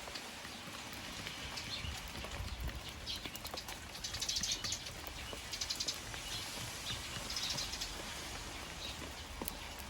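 Eurasian tree sparrows chirping in about six short, rapid bursts, over a steady patter of rain.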